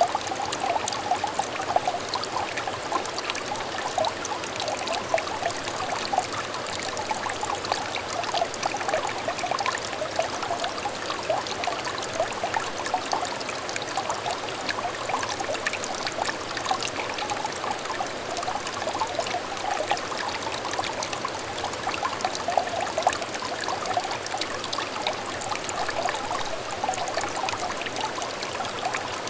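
A small shallow stream trickling and babbling, with many quick little bubbling splashes of water running over stones, steady throughout.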